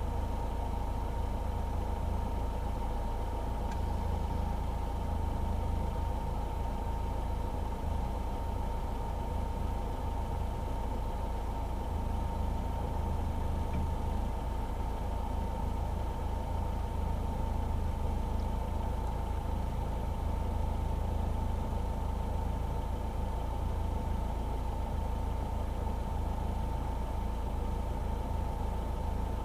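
Citroën DS running steadily on the move: a low engine and road rumble with a steady high whine, unchanging throughout.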